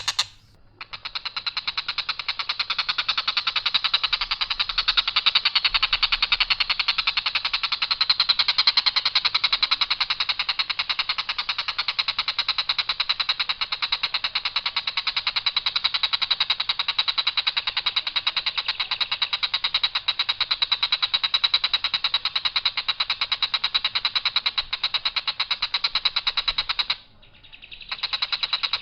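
Tengkek buto (collared kingfisher) giving its harsh, rattling call of rapid notes, held unbroken for a long stretch in one even line without variation. It stops for about a second near the end, then starts again.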